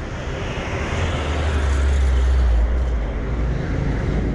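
A motor vehicle passing on a street: a low engine rumble with road noise that swells about a second in and eases off toward the end.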